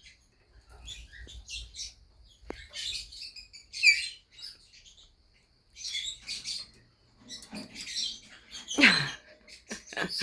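Young cockatiels chirping in short, scattered calls, some sliding down in pitch, with quiet gaps between; the loudest calls come about four seconds in and near the end.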